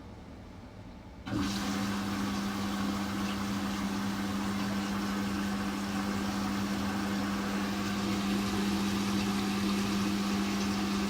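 Front-loading washing machine starting its wash cycle: about a second in, a steady hum and rushing water switch on suddenly and run on evenly as water flows through the machine.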